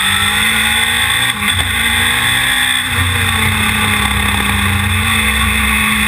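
On-board sound of the Knightsport Stratos's engine running hard under acceleration, its note climbing with two short breaks, about a second in and near the middle, then running steady.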